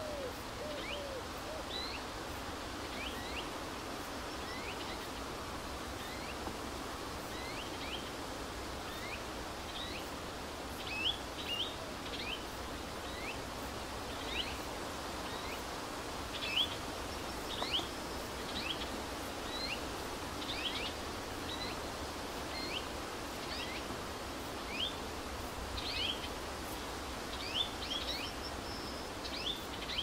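Birds chirping: short, quick sweeping calls repeated irregularly and getting busier from about ten seconds in, over a steady outdoor background noise.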